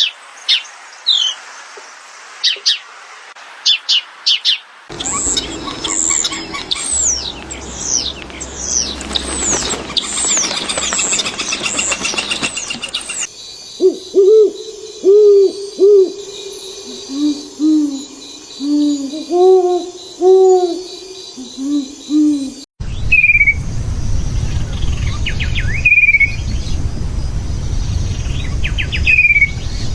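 Several different bird recordings spliced one after another. High chirps first, then a quick run of falling high whistles. Then a series of low, owl-like hooting notes, then short falling calls over a steady low rumble.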